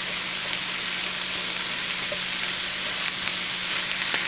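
Chopped cabbage frying in a cast-iron skillet: a steady sizzling hiss, with a wooden spoon stirring and scraping through the cabbage and small ticks and pops.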